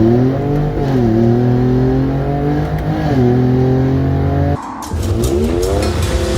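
2021 Ford Bronco engine revving: its pitch climbs to a peak at the start, falls about a second in and holds, blips up again around three seconds, then after a brief break climbs again near the end. It has a six-cylinder sound, which is taken for the 2.7 or 3.5 litre EcoBoost V6 rather than the 2.3 litre four-cylinder.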